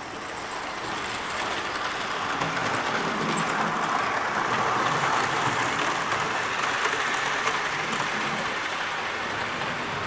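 OO gauge model train running along the track: a motor hum with wheels rolling on rail. It grows louder as the train approaches, is loudest about halfway through, then eases slightly.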